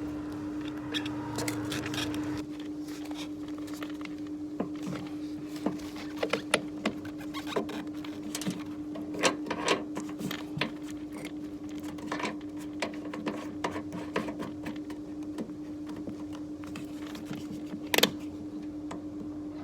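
A steady machine hum runs under scattered clicks and knocks of air-conditioner installation work, with one sharper knock near the end.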